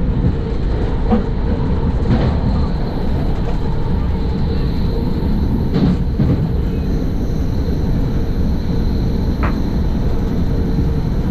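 NJ Transit commuter train running, heard from inside the car: a steady, loud rumble of wheels on the rails with a faint constant hum. A few short, sharp clicks come through, the strongest about six seconds in.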